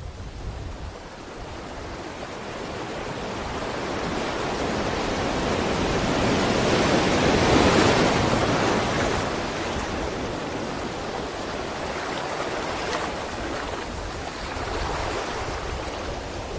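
Sea waves breaking on the shore: the surf builds to a peak about halfway through, then recedes in a long wash.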